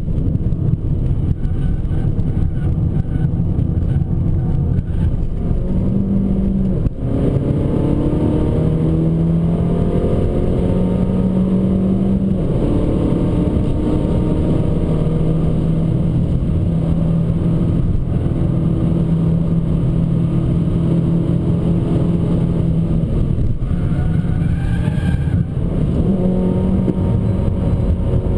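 Abarth 595 Competizione's turbocharged 1.4-litre four-cylinder engine driven hard. The revs dip sharply about seven seconds in and climb again, hold steady through the middle, then fall and rise once more near the end.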